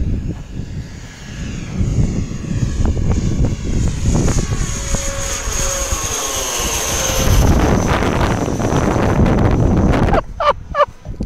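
Scratch-built RC Boeing 737 MAX 7 model airliner passing overhead, its motors whining high and swelling as it approaches, then falling away about ten seconds in. Just before the end come a few short excited shouts.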